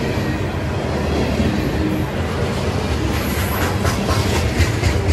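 Freight cars of a long train rolling past at speed: a steady rumble, joined about three seconds in by sharp clickety-clack of the wheels over the rail joints, roughly four clicks a second, with a brief faint wheel squeal.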